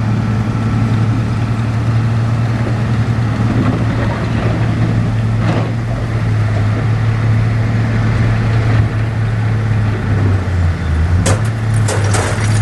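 Heavy diesel engine of earthmoving machinery running steadily at a constant speed. Near the end, sharp metallic clanking and rattling starts over it.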